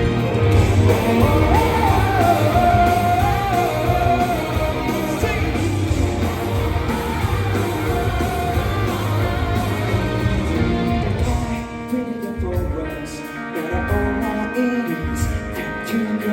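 Rock band music with electric guitar over bass and drums. The full sound drops back to a sparser backing about twelve seconds in.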